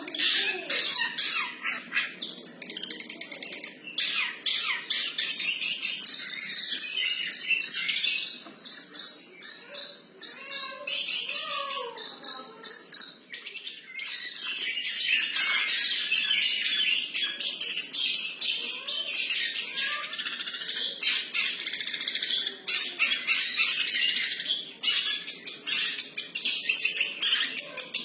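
Long-tailed shrike (cendet) in full, continuous free-style song: a rapid, unbroken stream of high chirps and harsh notes, with two short lulls about a third and halfway through.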